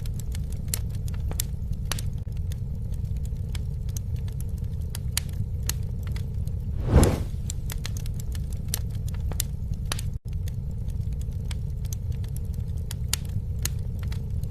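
Campfire crackling: irregular sharp pops and snaps over a steady low rumble of flames, with one louder whooshing swell about seven seconds in.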